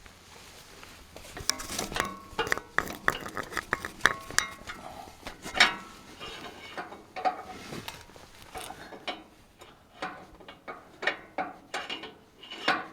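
Irregular metallic clinks and knocks as the steel lift shaft and lift-arm parts of a tractor's three-point linkage are shifted and worked by hand, a few of them ringing briefly.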